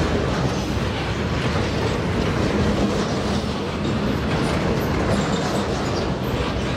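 Freight train rolling past, its wheels clattering steadily over the rails.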